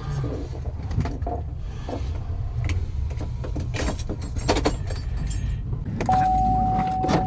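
Low steady rumble of an idling vehicle engine, with scattered clicks and knocks. About six seconds in, a steady high single tone starts and holds.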